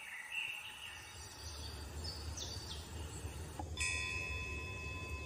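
Outdoor ambience with a few short bird chirps over a low rumble. About three and a half seconds in there is a click, and several steady high tones start and hold.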